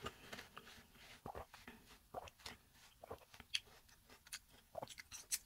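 Faint chewing of a mouthful of watermelon, heard as scattered small wet clicks from the mouth, a little louder around the middle and near the end.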